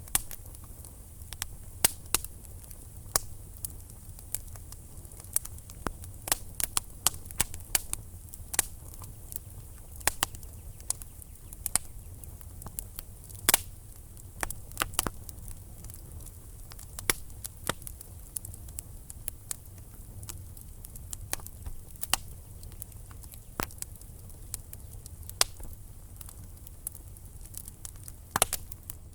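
Wood fire burning in a fireplace, logs crackling with irregular sharp pops and snaps over a low steady rumble of the flames.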